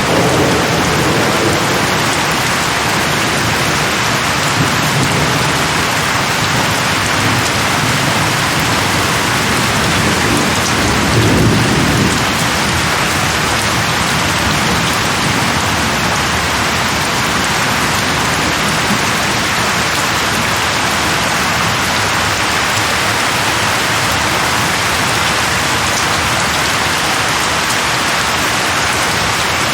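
Heavy steady rain falling, with low rolling thunder in the first part that is loudest about eleven seconds in, then rain alone.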